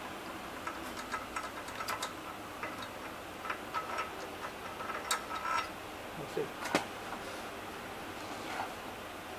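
Irregular metallic clicks and clinks of hand tools working on car parts, some with a brief ring.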